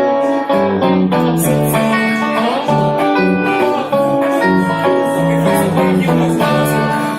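Guitar playing an instrumental passage of a song, a steady run of plucked notes and chords.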